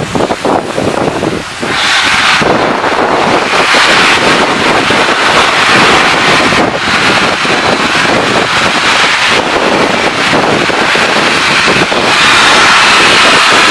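The LNER Peppercorn A1 4-6-2 steam locomotive No. 60163 Tornado starts away with a train, making a loud rushing steam-and-exhaust noise. It is choppy for the first two seconds, then becomes a steady loud rush that swells again near the end.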